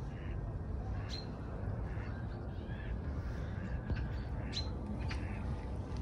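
A few short, sharp bird calls, the clearest about a second in and again near four and a half seconds in, over a steady low rumble.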